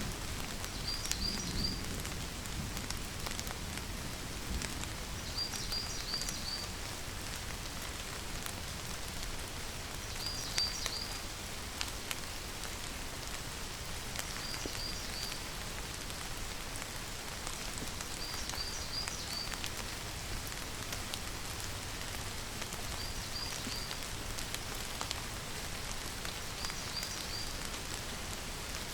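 Steady rainfall pattering on surfaces. A high chirp of three or four quick notes repeats about every four seconds.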